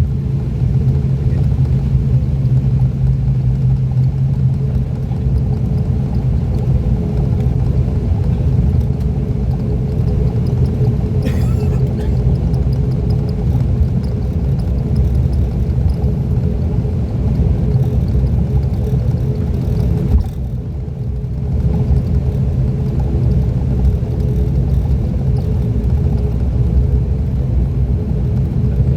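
An ATR 42-600's Pratt & Whitney PW127 turboprop engines running, heard from inside the cabin as a steady low drone with a propeller hum. The sound dips briefly about two-thirds of the way through.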